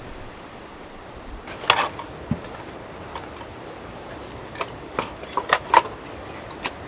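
Scattered knocks and clicks of hard objects being handled: a short clatter about two seconds in, then a run of sharp ticks near the end, over a steady low hiss.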